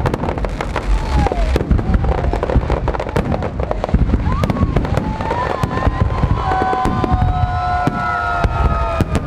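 Fireworks display: a dense, irregular run of bangs and crackles over a low rumble. A held, slightly falling tone sounds over it for the last few seconds.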